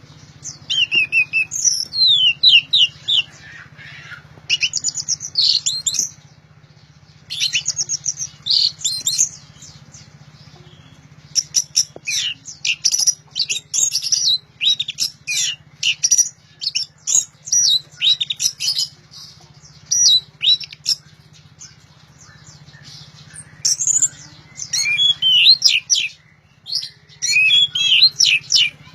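Orange-headed thrush (anis merah) singing loudly and continuously, in bursts of rapid, varied whistled phrases and trills separated by short pauses.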